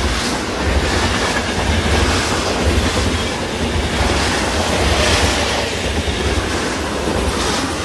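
Train running through a station: a steady, heavy rumble with rail and wheel noise.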